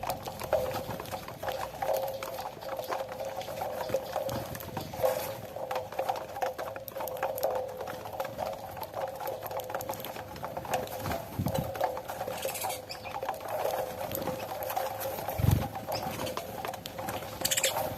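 Many quick small taps and patter of a flock of saffron finches pecking at cracked corn, over a steady hum.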